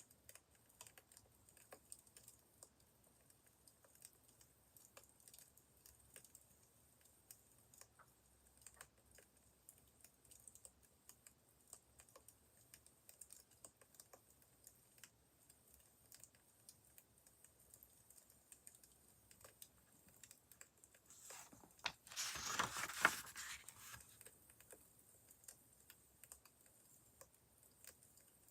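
Faint wood fire crackling, with scattered irregular pops. About three-quarters of the way through there is a brief louder rustle lasting about two seconds.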